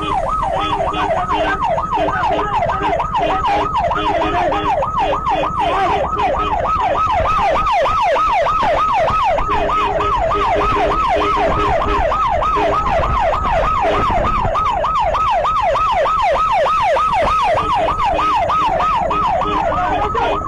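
Police siren in a fast yelp, its pitch sweeping up and down a little under three times a second without a break, with a lower on-and-off tone underneath.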